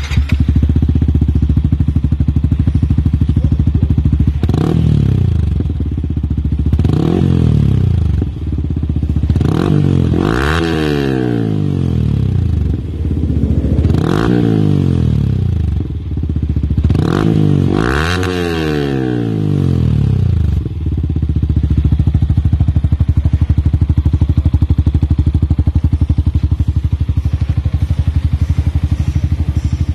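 Yamaha R15's 150cc single-cylinder engine through an Over Racing aftermarket racing exhaust, idling and then revved about five times, each rev rising and falling back, the middle three the biggest. It then settles back to a steady idle.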